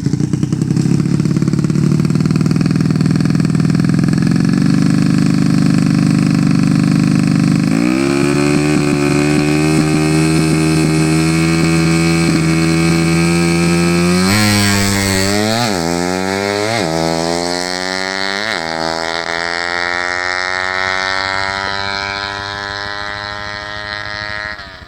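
A 115 cc underbone racing motorcycle engine runs at a steady speed, then is brought up to a higher speed about a third of the way in. It is blipped down and back up several times and slowly climbs again before being shut off abruptly near the end. The engine is still being sorted out: the tuner says it still stutters, and its carburettor is still being tuned.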